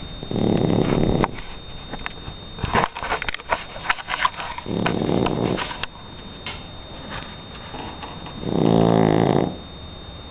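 Three-month-old Shar Pei puppy snoring: three loud snores about four seconds apart, each about a second long, the last one with a pitched, buzzing tone. A run of short clicks falls between the first two snores.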